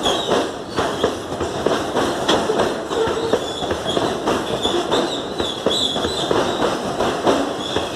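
Loaded freight hopper cars rolling past close by, their wheels clattering over the rail joints in a run of quick knocks over a steady rumble. A thin high wheel squeal comes and goes in the middle.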